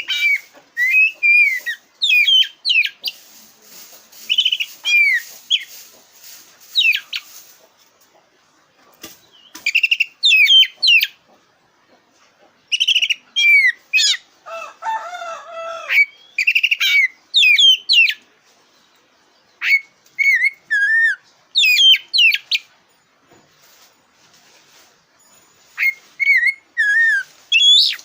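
Black-breasted oriental magpie-robin (kacer dada hitam) singing: bursts of loud, sliding whistled notes a second or two long, separated by short pauses, with a lower, rapid warbling passage about halfway through.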